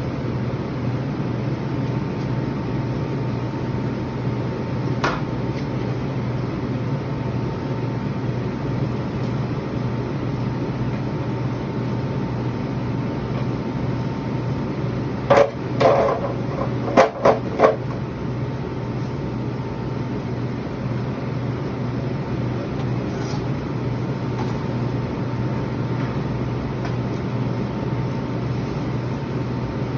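Steady low machine hum with a faint high whine throughout, and a quick series of five or six knocks and clatters about fifteen seconds in: plastic drink crates being handled.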